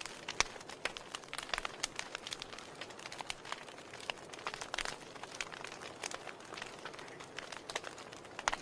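A fireplace fire crackling: irregular pops and snaps, some sharp and loud, over a soft steady hiss.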